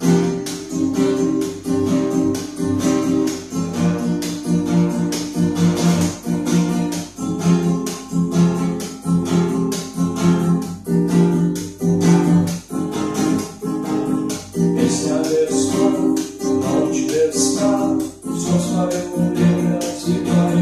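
Acoustic guitar strummed in a steady rhythm, the chord changing every few seconds: the instrumental intro before the vocals come in.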